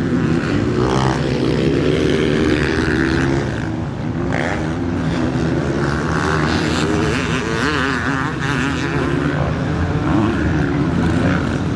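Several motocross bikes racing round the track, their engines revving up and down as they accelerate and shift.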